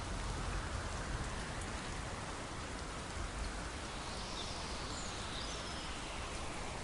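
Steady rain falling, an even hiss, with a few faint short bird chirps about two-thirds of the way through.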